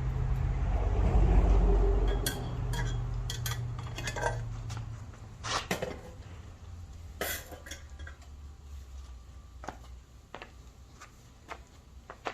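Light metallic clinks and taps, a dozen or so scattered through, over a low rumble that fades out in the first two or three seconds.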